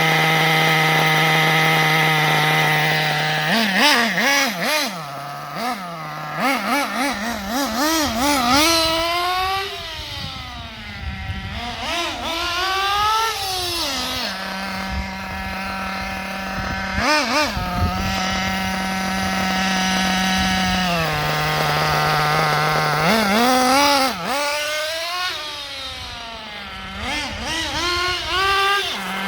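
Kyosho MP10's RB 21 nitro engine idling steadily, then blipped repeatedly so its pitch rises and falls in quick revs. It settles back to a steady, slightly higher idle about halfway through, is revved again in another series near the end, then returns to idle. It is being tuned from its break-in setting toward a clean, steady idle.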